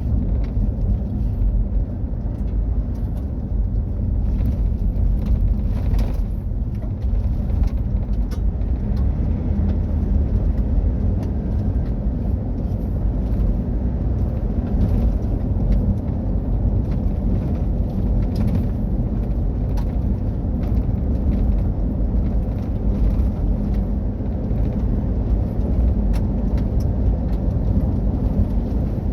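Mitsubishi Triton pickup driven off-road: a steady low engine and running rumble, with short sharp ticks and knocks scattered throughout.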